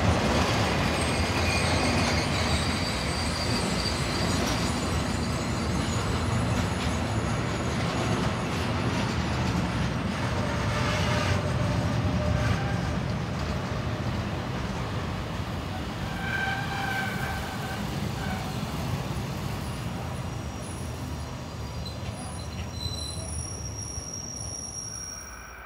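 Intermodal freight train of loaded pocket and container wagons rolling past, a steady wheel-on-rail rumble with scattered faint high wheel squeals. It fades gradually as the last wagons go by.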